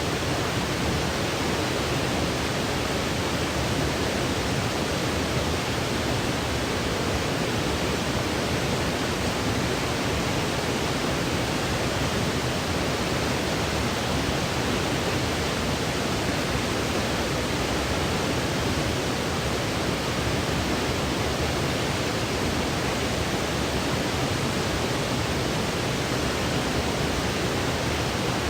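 Continuous synthetic white noise used as a baby sleep aid: a steady, even hiss that never changes.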